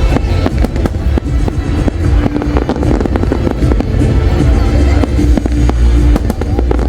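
A fireworks display going off non-stop: a rapid, continuous run of bangs and crackles over a deep rumble. Loud music with held tones plays underneath.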